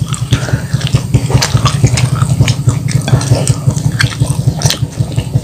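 Close-up chewing of crispy battered fried chicken with rice, full of wet lip smacks and quick clicks from the mouth, over a steady low hum.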